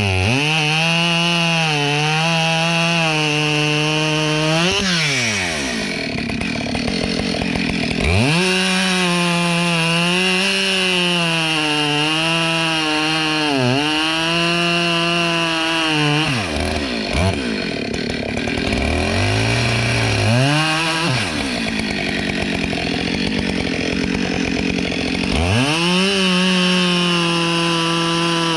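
Husqvarna two-stroke chainsaw cutting through dry oak logs, running steadily at full throttle in the cut. Three times the engine revs up as the chain breaks through, drops back to a low idle, then revs again into the next cut.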